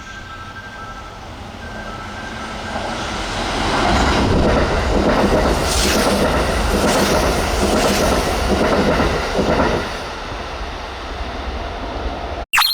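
Kintetsu 80000 series Hinotori electric limited express running by, its rumble swelling then easing, with wheels clicking over rail joints about once a second. The sound cuts off abruptly near the end.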